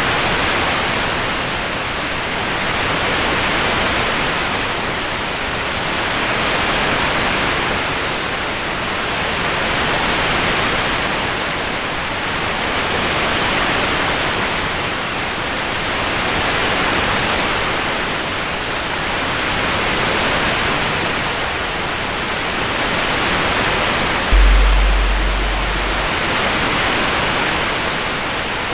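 Steady rain-sound hiss that swells and fades gently every few seconds. About 24 seconds in, a sudden deep low rumble comes in and dies away within two seconds.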